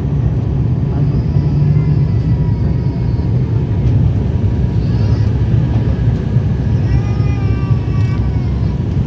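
Steady low drone of an ATR 72's two turboprop engines and propellers, heard from inside the passenger cabin.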